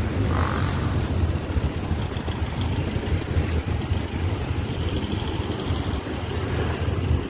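Steady rumbling wind noise on the microphone of a camera riding on a moving bicycle, mixed with road and traffic noise.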